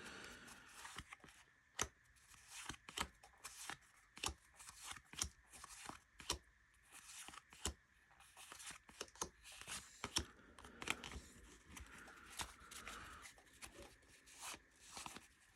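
Trading cards being handled and sorted: an irregular run of light clicks and snaps, several a second, as cards are flicked through and laid onto piles, with soft sliding rustles between them.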